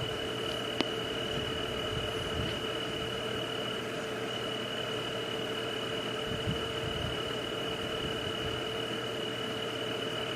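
Steady night ambience of insects: a continuous high, even chirring tone with a lower steady drone over a soft hiss, unchanging throughout, with one faint click about a second in.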